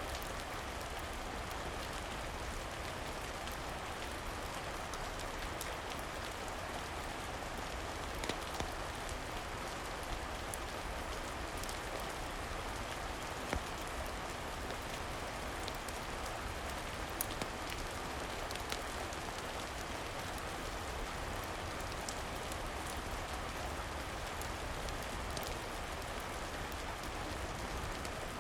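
Steady rain falling, an even wash of noise, with a handful of sharp clicks scattered over it.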